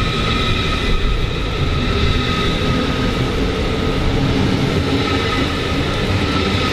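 A train running in the station: a steady, loud low rumble with a continuous high whine held at an even pitch.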